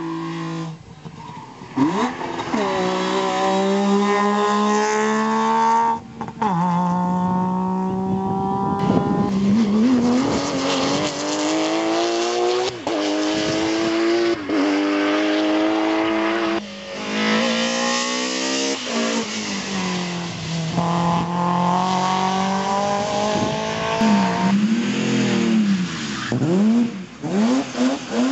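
Rally cars at full throttle, engines revving hard: the pitch climbs and drops sharply again and again as the cars shift up through the gears. Near the end the engine note swings quickly up and down.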